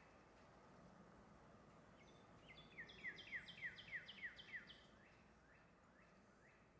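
Faint songbird song outdoors: a run of about ten quick downslurred whistled notes, about four a second, in the middle, with fainter, slower notes of the same kind before and after, over faint outdoor ambience.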